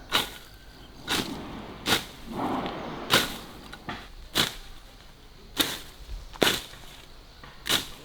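Machete slashing through grass and weeds with quick swishing strokes, about nine in all, at an uneven pace of roughly one a second, with a short rustle of cut grass about two and a half seconds in.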